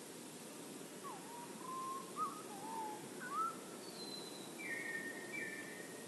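Birdsong: a few fluty whistled phrases that slide up and down, then a higher thin note and two short paired notes near the end, over a steady low background noise.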